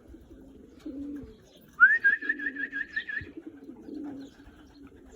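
Pigeons cooing in the loft, a low wavering murmur throughout. About two seconds in comes a louder, brief high whistled note that rises and breaks into a quick trill of about eight pulses.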